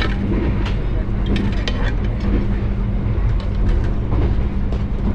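Steady low rumble of a passenger train carriage running at speed, heard from inside, with a constant hum and a few sharp clicks and knocks.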